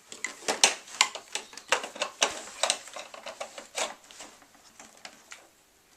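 Hoover Platinum vacuum cleaner's plastic parts being handled and fitted together: irregular clicks and knocks, several a second, thinning out and stopping about four and a half seconds in.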